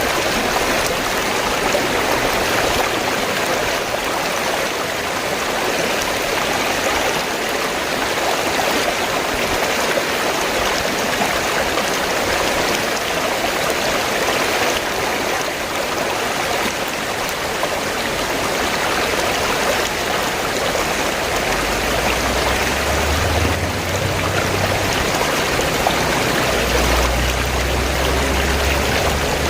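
River water flowing in a steady, even rush. A low rumble joins underneath about two-thirds of the way through.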